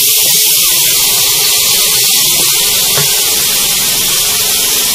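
Chopped tomatoes sizzling in hot oil and spice masala in a wok, with a steady hiss, while a spatula stirs them.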